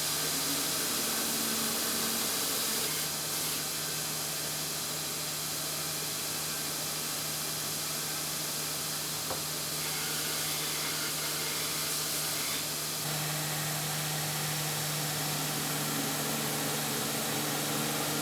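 Electric power tool running steadily with a constant hum and a hiss, in use while the hickory hammer handle is being shaped.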